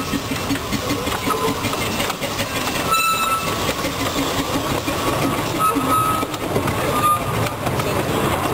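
A 15-inch minimum-gauge steam locomotive and its wooden carriages running past close by, wheels rattling and clicking over the track, with a few short high squeaks from the middle onward.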